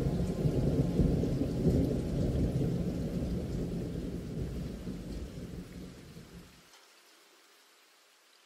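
Low rumble with a rain-like hiss, as of thunder and rain, fading out steadily and gone about six and a half seconds in.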